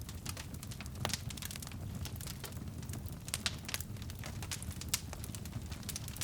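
Wood fire crackling in a fireplace: a steady low rumble of flame with frequent irregular sharp pops and snaps, a louder pop about a second in and another near five seconds.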